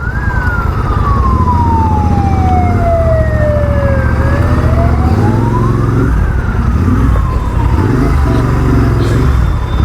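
Emergency-vehicle siren wailing in slow rising and falling sweeps, peaking near the start and again about six seconds in, over the steady low rumble of engines in a traffic jam.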